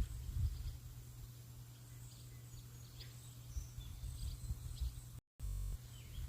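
Light rain hissing steadily while small birds chirp now and then, over a fluttering low rumble. The sound drops out for an instant about five seconds in.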